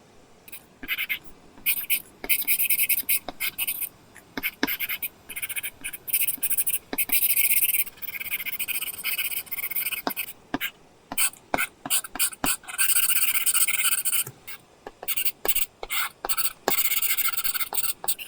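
Apple Pencil tip drawing on an iPad screen fitted with a paper-texture film: short scratchy strokes of up to about a second, one after another, with sharp taps of the pencil tip on the glass in between.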